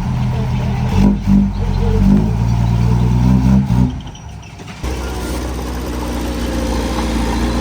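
Diesel engine of heavy earth-moving equipment running, its pitch shifting up and down under load. About four seconds in it drops away, and just before five seconds a steady engine sound cuts in abruptly.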